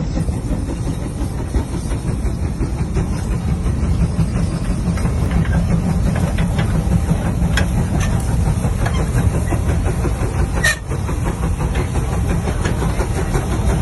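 A heavy vehicle engine running steadily with a deep, continuous rumble, with a couple of sharp clicks or knocks about eight and eleven seconds in.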